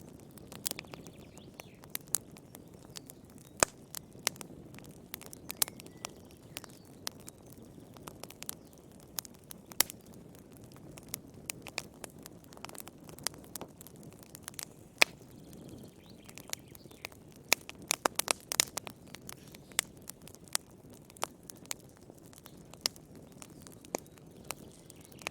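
Wood fire crackling in a fireplace: irregular sharp pops and snaps over a soft, low rumble of the flames, with a quick cluster of pops about two-thirds of the way through.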